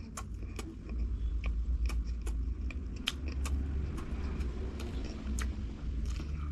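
Close-miked eating of crunchy fried food: a series of sharp, crisp crunches from biting and chewing over a deep, steady low rumble.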